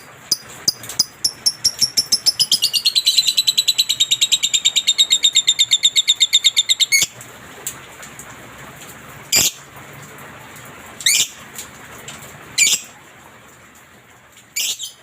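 Lovebird chattering: a few sharp chirps, then a long rapid rattling trill of about six notes a second, the 'ngekek' song, which cuts off suddenly about seven seconds in. Four single shrill calls follow, spaced a second or two apart.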